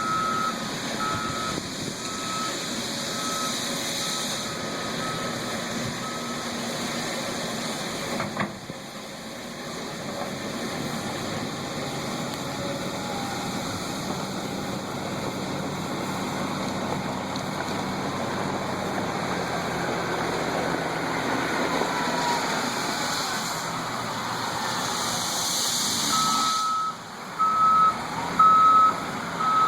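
Heavy equipment and a rock crusher running steadily, with a vehicle's backup alarm beeping over it in the first few seconds and again near the end. A single sharp knock comes about eight seconds in.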